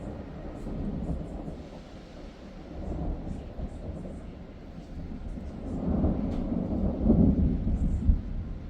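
Thunder rolling in a long, low rumble that builds and is loudest about six to seven seconds in.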